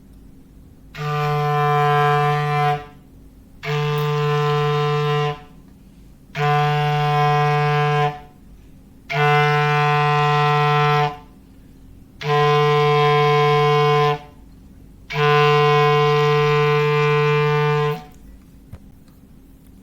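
A foghorn imitation played on a clarinet: six long low notes at the same steady pitch, each held about two seconds with short pauses between, the last one held longest.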